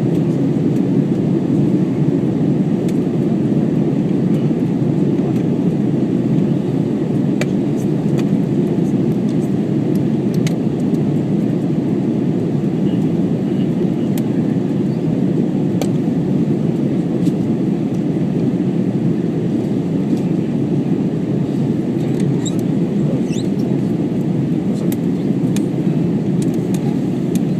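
Steady, unchanging rumble of an Airbus A321 cabin in flight: engine and airflow noise, with a few faint clicks.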